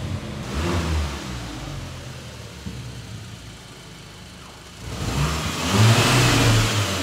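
VW Scirocco R's 2.0-litre turbocharged four-cylinder engine running as the car moves off slowly. The revs rise about five seconds in, the loudest part.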